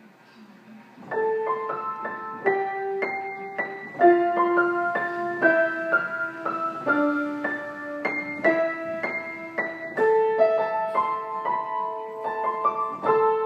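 Solo piano playing a slow melody, a note or chord struck about every half second, starting about a second in.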